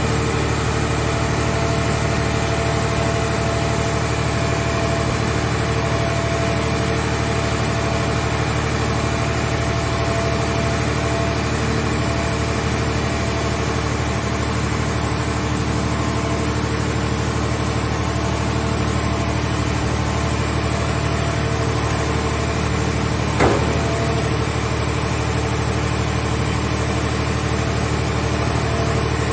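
Engine of a mobile hydraulic car-shell baler running steadily at a constant speed, with a single sharp knock late on.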